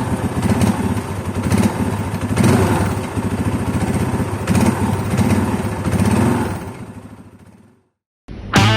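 Royal Enfield Classic 500's single-cylinder engine running with a steady low thump, louder at moments. It fades out near the end, and music starts just before the close.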